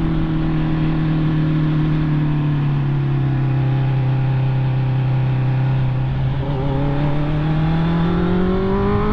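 Honda CB650R's inline-four engine running under way. Its pitch sinks slowly through the first half as it eases off, then climbs steadily over the last few seconds as it accelerates.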